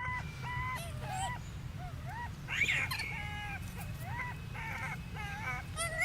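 An animal giving a run of short, high-pitched squealing calls, several a second, each rising and falling in pitch, with a louder sweeping cry about two and a half seconds in. A steady low rumble runs underneath.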